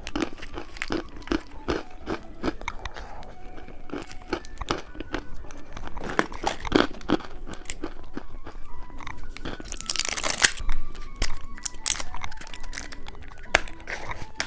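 Close-miked handling of candy and its plastic packaging: many small clicks and crinkles with some crunching, and a longer rustle or tear of a wrapper about ten seconds in. Soft background music underneath.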